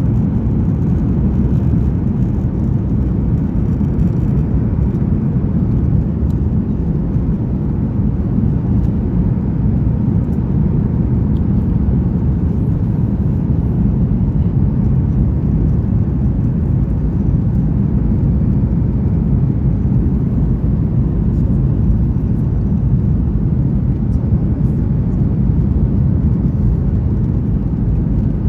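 Steady cabin noise inside a Boeing 737-900ER airliner: a loud, even, low rumble of its CFM56-7B jet engines and the air rushing past the fuselage.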